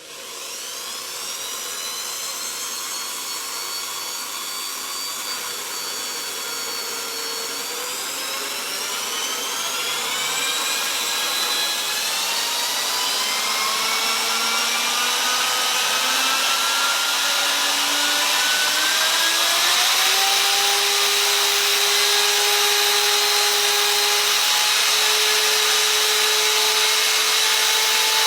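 Power-driven steel wire brush spinning hard against metal for friction welding: a steady scraping hiss with a whine that slides in pitch and mostly climbs over the second half, the whole sound growing gradually louder.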